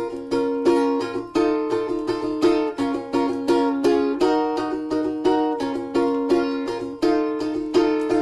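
Instrumental break of a Russian folk tune on a plucked string instrument: quick plucked notes and chords, each ringing and dying away, with no singing.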